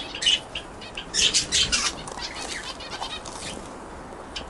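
Pet canaries chirping in quick, high bursts, with wing flutters, as they squabble over a piece of apple.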